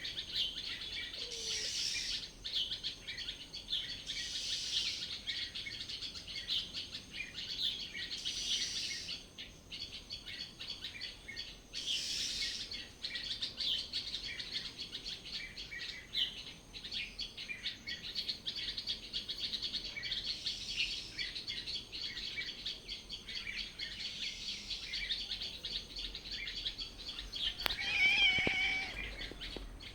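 Many small birds chirping and singing together without a break. Near the end a louder call of about a second stands out above the chorus.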